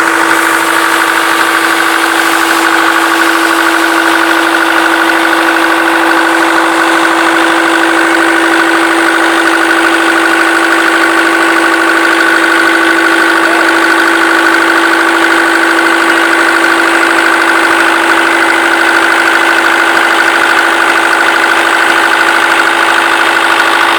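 Perkins L4 four-cylinder four-stroke diesel engine running at a steady, unchanging speed.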